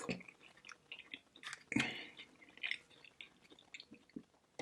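Close-up mouth sounds of a person chewing barbecue ribs: scattered wet smacks and clicks, the loudest a little under two seconds in.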